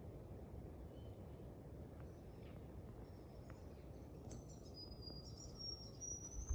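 Faint outdoor ambience: a steady low rumble of background noise with scattered high bird chirps, a brighter whistled bird note running through the last couple of seconds.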